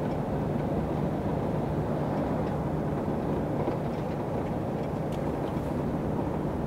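Steady in-cab drone of a truck's diesel engine and road noise while driving, with a constant low hum.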